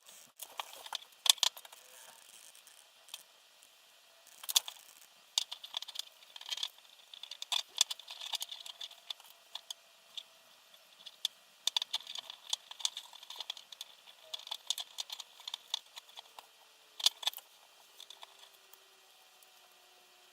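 Small hard parts being handled during hand assembly of a quadcopter kit: irregular clicks, taps and light rattles, some louder knocks among them.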